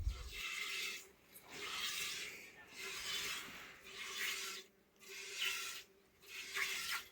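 Repeated rasping scrapes: about six strokes, each close to a second long, with short pauses between them.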